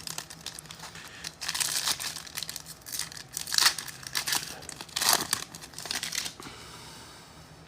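Foil trading-card pack being torn open and its wrapper crinkled, in several short rustling bursts that die away near the end.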